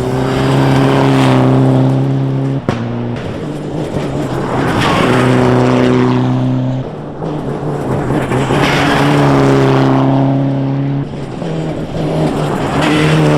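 Rally car engines held at high, steady revs as cars pass at speed, the sound swelling and fading about four times. There is one sharp crack a little over two seconds in.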